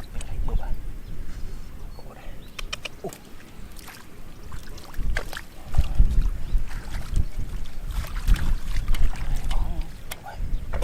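Water sloshing and splashing, with irregular low rumbling and scattered sharp clicks.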